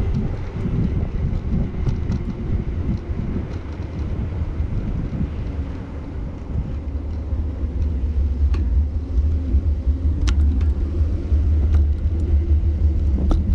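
Low, steady road rumble of cars passing, growing louder about halfway through, with a few faint clicks.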